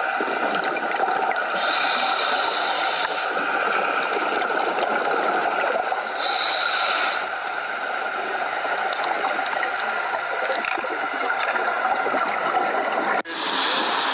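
Steady rushing, gurgling water noise, with a short break about a second before the end.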